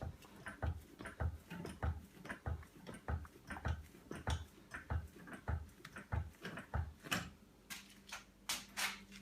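Foot pedal of a hydraulic scissor-style dirt bike lift being pumped, a low thump and click on each stroke, about every 0.6 s, as the jack raises the bike. The pumping stops about seven seconds in and is followed by a few sharp clicks.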